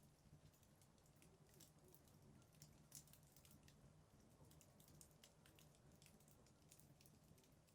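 Wood fire in a fireplace crackling faintly, with scattered small pops at irregular intervals, the sharpest about three seconds in, over a faint low hum.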